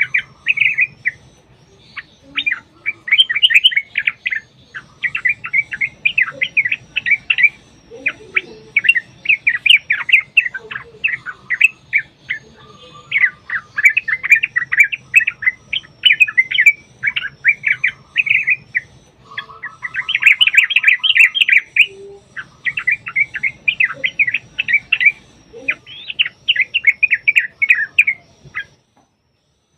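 Yellow-vented bulbul (trucukan) singing: rapid, bubbly, chattering phrases of a second or two, one after another with short gaps, breaking off shortly before the end.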